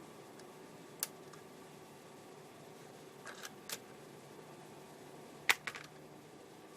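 Several short, sharp clicks over a faint steady background hum: one about a second in, a quick cluster of three a little after the middle, and the loudest near the end, followed by two smaller ones.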